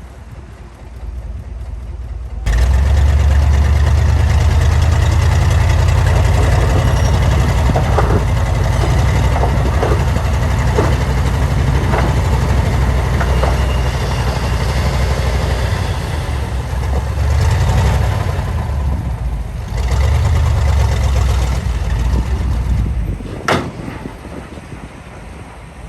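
Heavy diesel earthmoving machinery running close by with a deep, steady rumble. It jumps abruptly louder about two and a half seconds in, with scattered knocks and clanks of working machinery, and drops back near the end after a sharp click.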